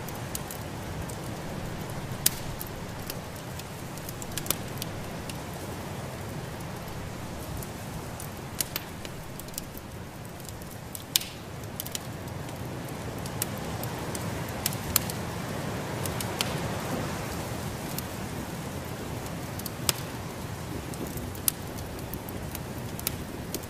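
Wood fire in a fireplace crackling, with sharp irregular pops over a steady rushing hiss that swells a little in the middle.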